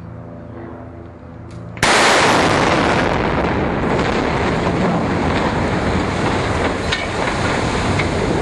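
Demolition charges on a steel bridge go off with a sudden, very loud blast about two seconds in. The blast becomes a sustained rumbling roar, with a few sharp cracks near the end.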